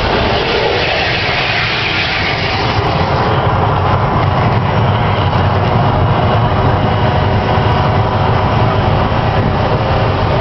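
Mirage volcano show erupting: a loud, dense, steady rumbling roar, heavier in the low end from about three seconds in.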